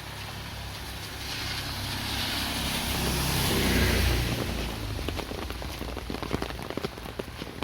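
A vehicle passing on a wet road: engine rumble and tyre hiss swell up, peak about four seconds in and fade away. A run of sharp taps follows near the end.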